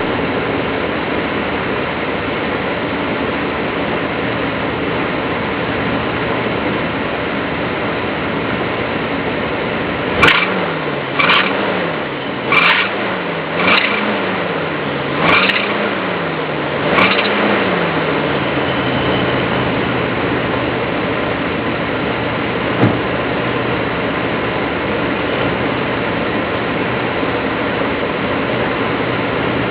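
1974 Dodge Monaco engine idling, then blipped about six times in quick succession about ten seconds in, each rise in engine speed bringing a short high squeal before it settles back to idle. The owner suspects the squeal comes from a belt-driven accessory: the alternator, water pump or air-conditioning compressor.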